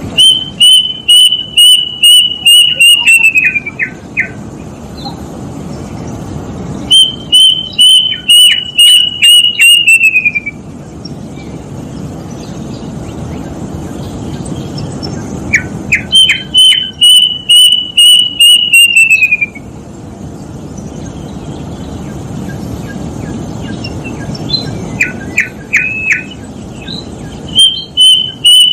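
Plaintive cuckoo (kedasih) calling: loud bouts of about ten quick whistled notes, each run falling in pitch at its end. The bouts last about three seconds and come four times, with a few shorter, lower notes between them.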